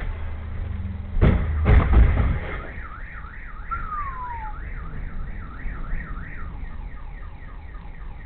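Loud crash impacts of a road collision, one a little over a second in and a heavier one at about two seconds, then a car alarm sounds with a fast up-and-down warble, about three sweeps a second, fading toward the end.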